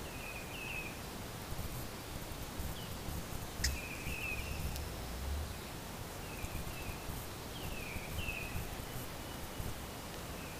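Small bird chirping in short repeated phrases of a few quick high notes over steady outdoor background hiss, with one sharp click a little under four seconds in.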